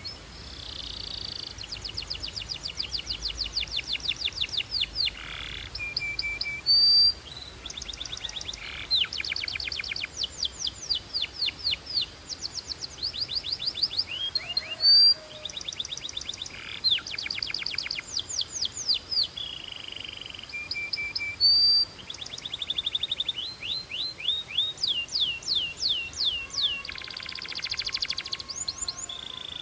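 Belgian canary singing: fast trills of rapidly repeated high, sweeping notes, switching from one trill to the next every second or two, with a few short, louder notes in between.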